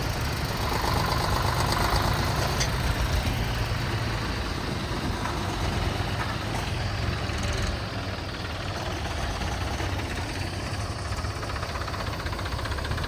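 Diesel tractor engine running steadily, a low drone that eases slightly about eight seconds in.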